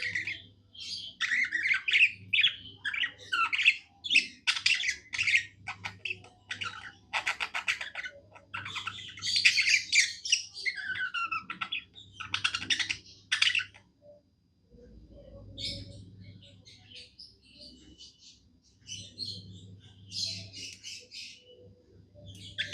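Budgerigar warbling and chirping in quick, loud runs of chatter with squawky notes. About two-thirds of the way in it drops to softer, sparser chirps.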